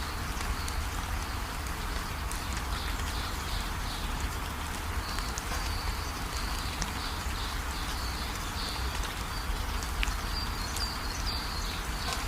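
Steady rain falling, with an animal chirping high in quick repeated pulses over it, at first in short groups and from about five seconds in almost without pause.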